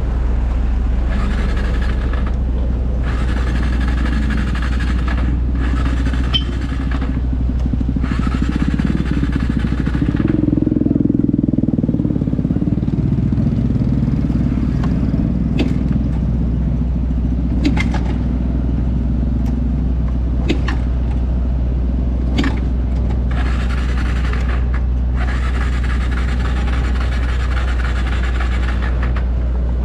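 Small motorbike engine running while riding, its pitch rising and falling near the middle, with stretches of wind noise on the microphone.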